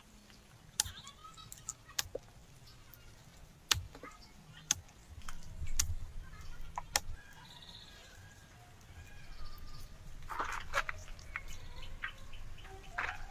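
Scattered sharp clicks and snaps, a dozen or so spread unevenly, with a denser crackling stretch about ten seconds in, over faint bird chirps.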